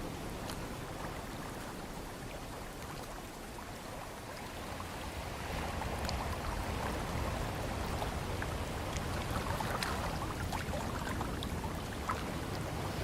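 Ocean surf washing in, a steady rush of water that swells louder about five seconds in, with scattered small crackles.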